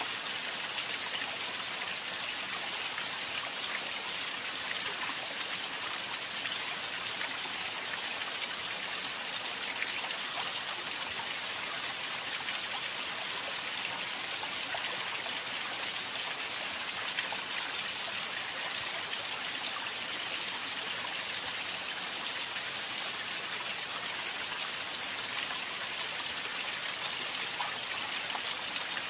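Water pattering steadily in a dense, even hiss of many small drops, without pauses or changes.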